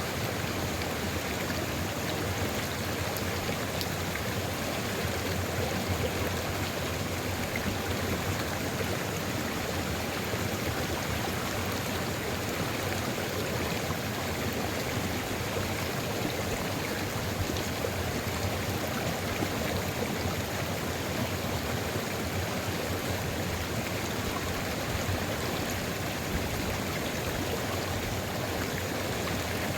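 Sulfur river flowing steadily, an even rush of running water without breaks or separate splashes.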